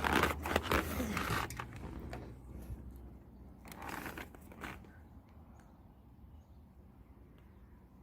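Rustling and scraping handling noises, loudest in the first second and a half with another burst about four seconds in, then faint.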